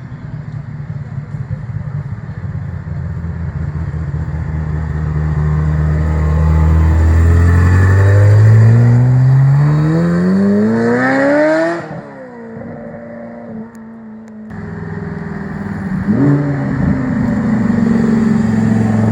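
A car engine pulling away under hard acceleration: its note climbs steadily for several seconds and is loudest as it peaks, then drops away abruptly. About four seconds later another engine revs up.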